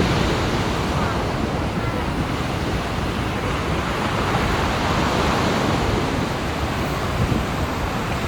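Steady sea surf, waves washing in continuously on a beach.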